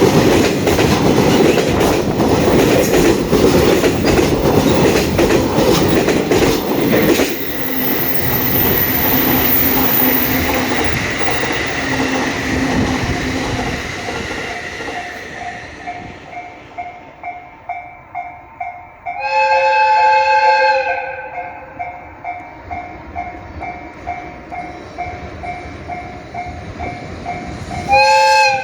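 A train passing close by with wheel clatter and rumble that drops away after about seven seconds and fades. A level-crossing warning bell then dings steadily, and a train horn sounds one long blast about two-thirds of the way in and a short one at the end.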